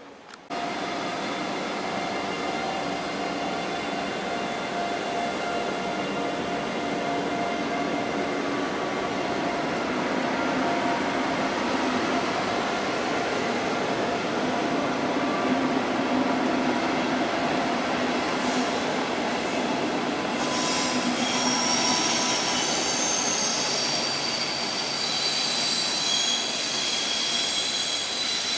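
Double-deck regional push-pull train rolling out past the platform, a steady rumble of coaches on the rails that slowly grows louder. From about twenty seconds in, the wheels squeal in several high held tones.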